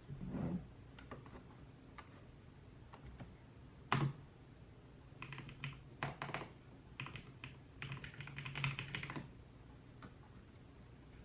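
Computer keyboard typing in short bursts of keystrokes, densest in the second half, with a single louder knock about four seconds in.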